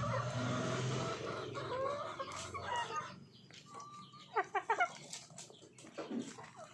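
Chickens clucking, with a quick run of four loud clucks a little past the middle.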